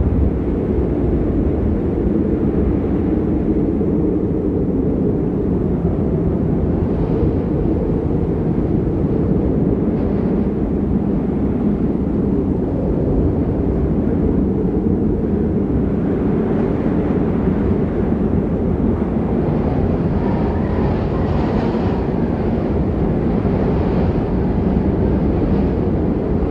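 Strong storm wind buffeting the microphone: a loud, steady, deep rumble, with a little more hiss in gusts past the middle.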